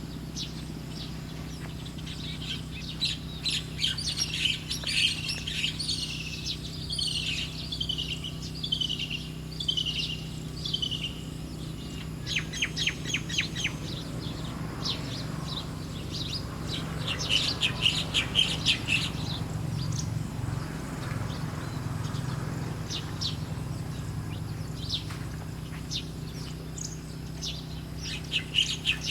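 Small birds chirping: a run of short, downward-sliding chirps, then quick chattering trains of notes, over a steady low hum.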